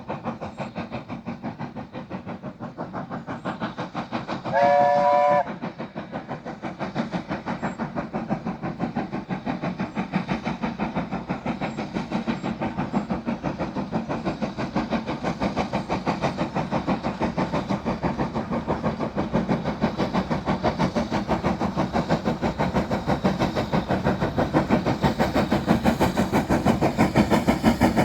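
BR Standard Class 4MT 4-6-0 steam locomotive No. 75014 working hard up a gradient, its rapid, even exhaust beats growing louder as it approaches. About five seconds in, one loud chime-like whistle blast of about a second.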